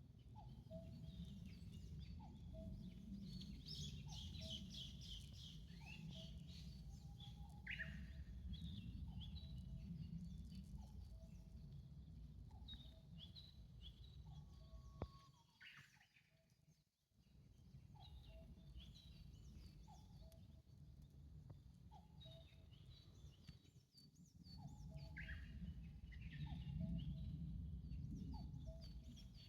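Birds calling at dawn: a short low call repeated about once a second, with higher chirps and quick trills over it, on a faint low rumble that cuts out briefly about halfway through.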